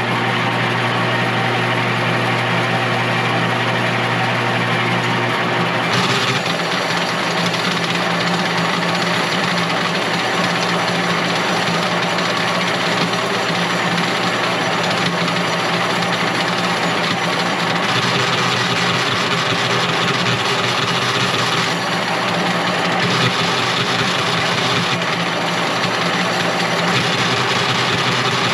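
A machine running steadily: a continuous low hum with a few held tones that shift slightly every several seconds.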